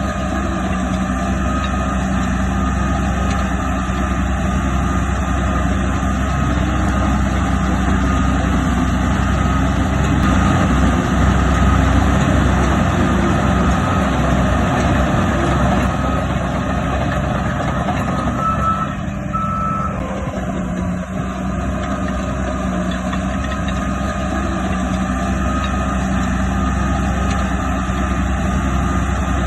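Heavy diesel earthmoving machinery running steadily under load, with a reversing alarm beeping.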